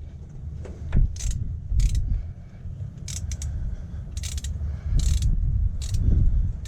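Ratchet wrench clicking in short, irregular runs as a nut is tightened.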